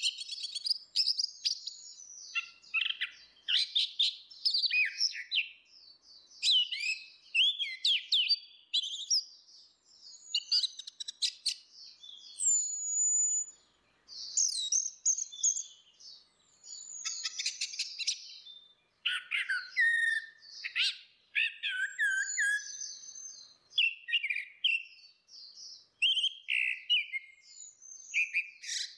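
Orange-headed thrush singing a loud, varied song of quick whistled phrases and chattering notes, almost without a break.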